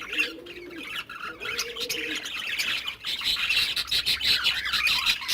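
A mix of small cage birds chirping and chattering throughout, with a dove cooing three times in the first two seconds.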